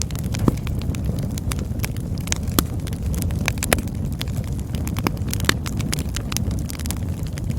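Campfire burning: a steady low rush of flames with frequent sharp crackles and pops of varying loudness, several a second.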